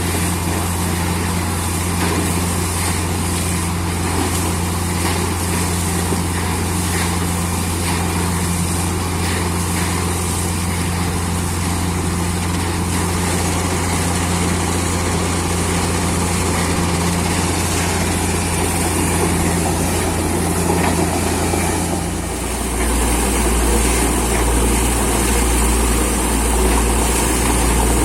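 Heavy engine of a borewell drilling rig running steadily, a low continuous hum; near the end its note drops lower and heavier.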